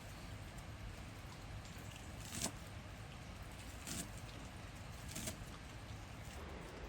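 Steady rain falling, with three short, louder knocks about two and a half, four and five seconds in.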